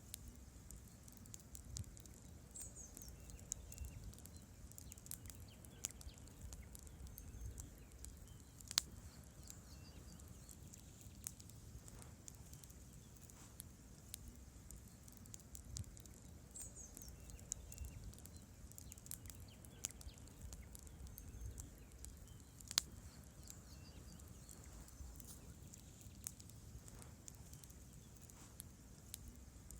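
Wood campfire burning, faintly crackling with a steady scatter of small pops and snaps from the logs, and two sharp louder pops, about nine seconds in and again about twenty-three seconds in.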